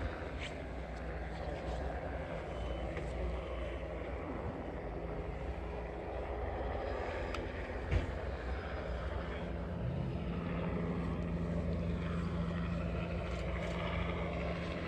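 An engine running with a steady low rumble. There is a single knock about eight seconds in, and a steady low hum joins a moment later.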